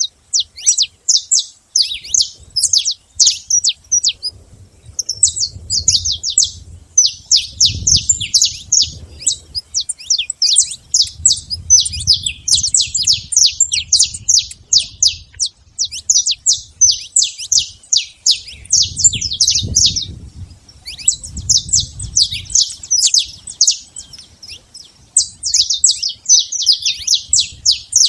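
Saffron finch singing: fast runs of sharp, high chirps in long phrases, broken by short pauses.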